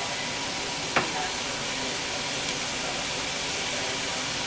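Diced onion frying in butter in a stainless steel skillet, a steady sizzle. About a second in there is a single sharp knock of the wooden spoon against the pan.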